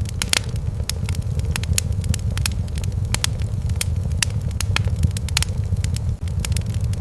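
Wood fire in a fireplace crackling, with frequent sharp, irregular pops and snaps over a steady low rumble of burning.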